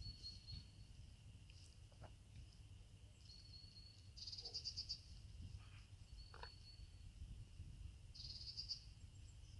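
Near-silent outdoor ambience with small birds calling: a short thin high note about every three seconds and two brief rapid trills, over a faint low rumble.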